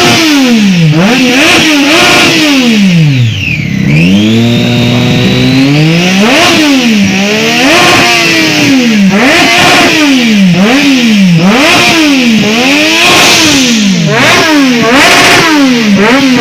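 Sport motorcycle engine revved over and over, its pitch climbing and dropping about once a second, held briefly at a steady pitch a few seconds in.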